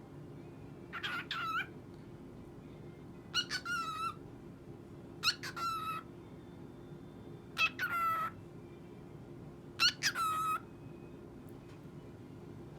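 Cockatiel calling: five similar warbling calls, each opening with a sharp note, repeated about every two seconds.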